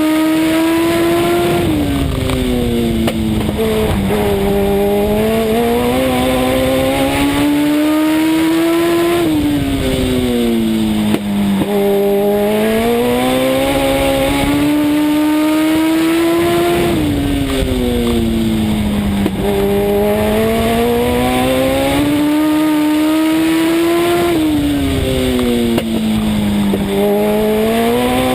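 Legend race car's Yamaha 1200 cc four-cylinder motorcycle engine at racing speed, heard from inside the car. The engine note drops off for each turn and climbs again down each straight, once about every eight seconds, lap after lap.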